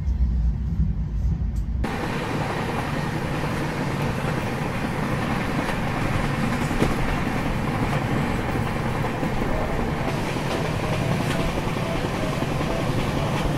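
Passenger train running at speed. First there is a deep low rumble inside the coach, then, from about two seconds in, a steady rushing noise of wheels on track.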